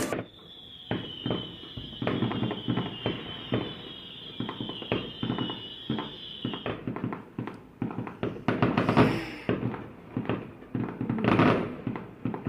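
Fireworks going off: many irregular pops and cracks, with a steady high whistle over the first half and bursts of crackling near the end.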